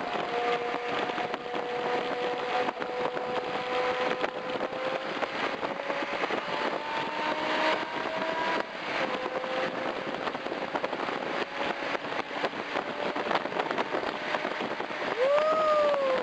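2007 BMW M6's V10 through a Meisterschaft GT exhaust, driving on the road: the engine note climbs slowly, drops once about nine seconds in as it changes gear, holds steady, then rises and falls quickly near the end.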